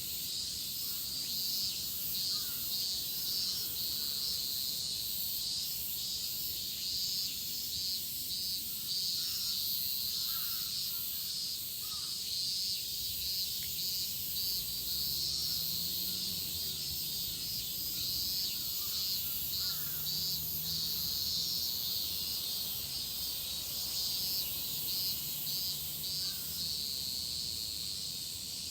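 A chorus of cicadas buzzing steadily, a dense shrill sound with a fine pulsing texture, joined now and then by faint short chirps.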